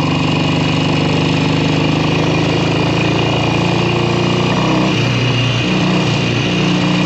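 1967 Kawasaki W1 650's parallel-twin engine running under way. Its pitch drops about two-thirds of the way through, then picks up again. It is putting along with one of its two carburetors not playing along.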